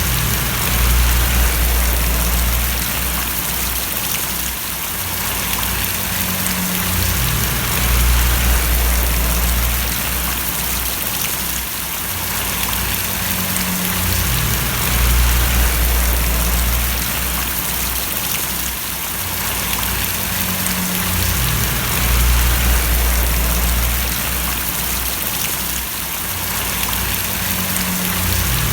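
Steady heavy rain falling and splashing, an even hiss, with a low rumble underneath that swells and changes in a repeating cycle of about seven seconds.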